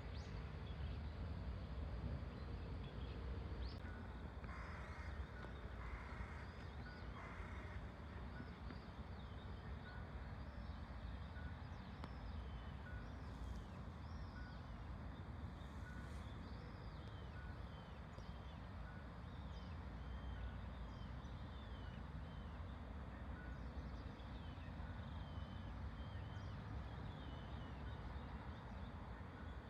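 Many short high bird chirps over a steady low rumble, with a faint regular pip about once a second and three brief rustling noises a few seconds in.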